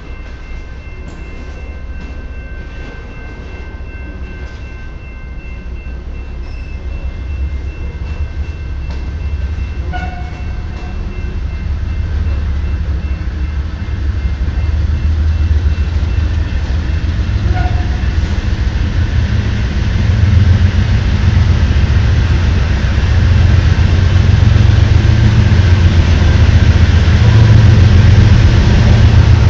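Freight train of tank cars rolling past with a steady wheel-on-rail rumble, joined in the second half by the low engine rumble of CN diesel locomotives, a GE C44-9W among them, growing steadily louder as they draw level. A faint, steady high squeal sounds through the first ten seconds or so.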